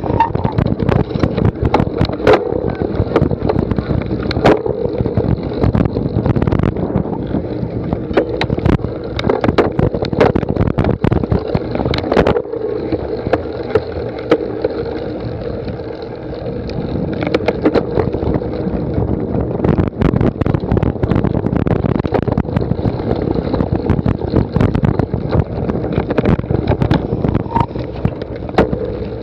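Cyclocross bike rattling and knocking over rough ground, with many irregular sharp knocks and wind buffeting the microphone.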